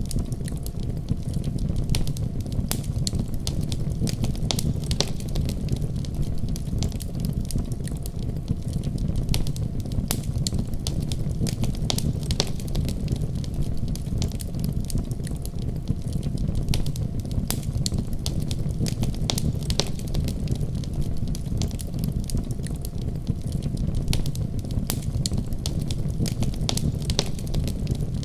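Wood fire burning steadily with a low rumble and frequent irregular crackles and pops.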